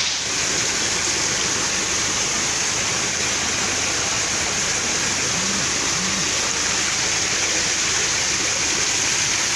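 Floodwater rushing, a steady unbroken noise of flowing water.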